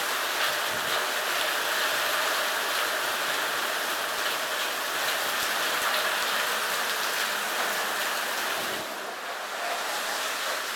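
Heavy thunderstorm rain pouring down, a steady hiss that eases slightly near the end.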